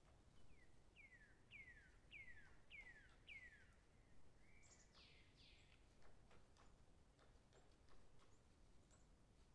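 Faint bird calls: a run of five descending whistled notes about half a second apart, then a couple of broader calls about five seconds in, over a low hiss with scattered faint ticks.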